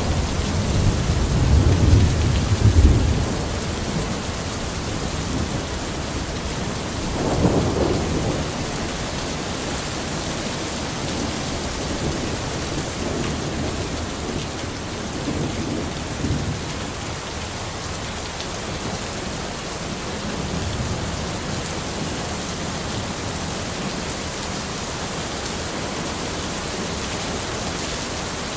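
Steady rain falling, with thunder rumbling low: a loud rumble in the first three seconds, another about seven seconds in, then a few fainter rumbles.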